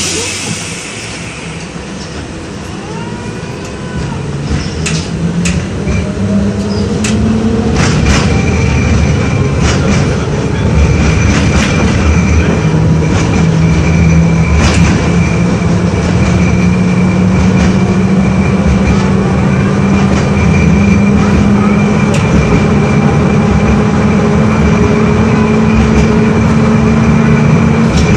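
LVS-86K tram pulling away and running along the track, heard from inside. The traction motors' hum rises in pitch and grows louder over the first several seconds, then holds steady, with scattered sharp clicks and knocks from the wheels and running gear.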